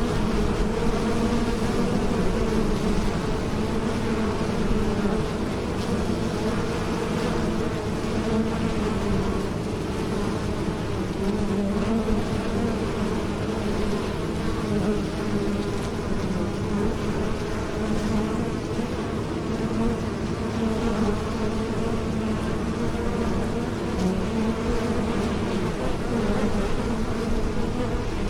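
Bees buzzing in flight: a steady, dense hum of many wingbeats that wavers a little in pitch without letup.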